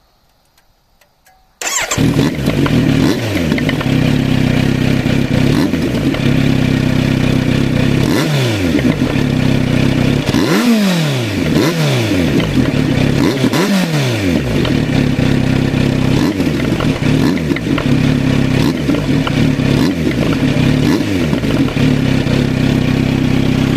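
Kawasaki Z900RS inline-four engine, heard through a 70 mm bullet-style aftermarket silencer with a 'piyo-piyo' baffle, fires up about one and a half seconds in and then idles loudly, with several quick blips of the throttle in the middle.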